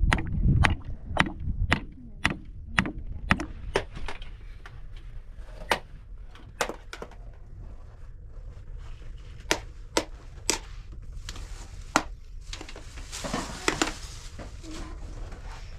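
A series of sharp knocks or strikes, two or three a second for the first few seconds, then spaced out and irregular, with a short burst of noise near the end.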